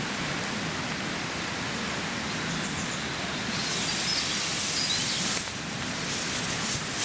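Steady rushing water, with a few short bird chirps from about three and a half seconds in.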